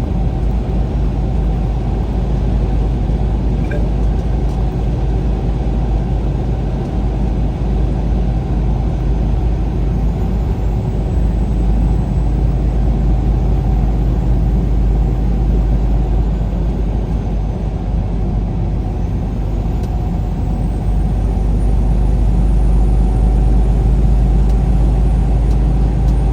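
Steady rumble of a vehicle driving at road speed, heard from inside the cab: engine and tyre noise with no breaks, growing slightly louder over the last few seconds.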